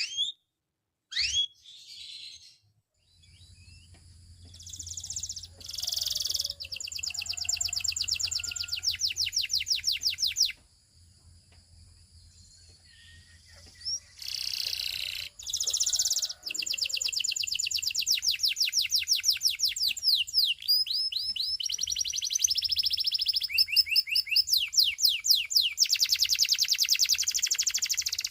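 Russian canary singing a long song of fast trills and rolls of rapidly repeated rising notes mixed with whistled notes, pausing briefly about halfway through. A faint steady low hum lies underneath.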